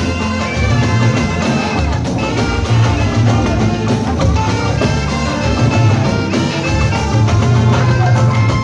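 Loud live church band music with heavy bass and drums, accompanying a choir ministration.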